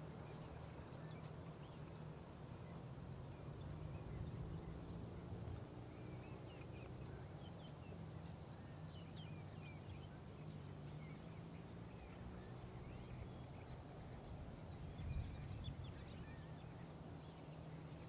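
Faint scattered chirps of birds over a low steady hum, with a short bump late on.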